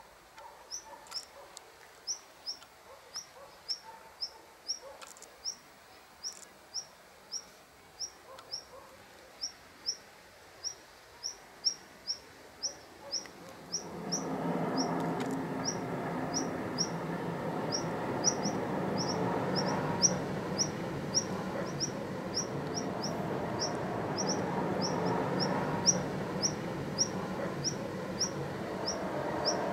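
A bird repeating one short, high chirp about twice a second without a break. About halfway through, a steady noise with a low hum in it starts suddenly and continues beneath the chirps.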